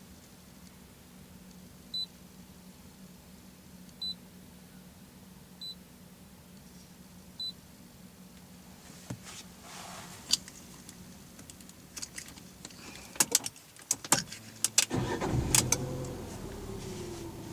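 Four short high beeps, evenly spaced about every second and a half, over a steady low hum, then clicks and rattles like keys and switches. About fifteen seconds in, the Fiat 500's engine is started and catches, its pitch falling as it settles toward idle.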